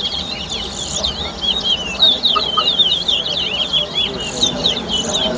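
Two caged towa-towa birds singing against each other: rapid, overlapping runs of high whistled and swooping notes that go on without a break.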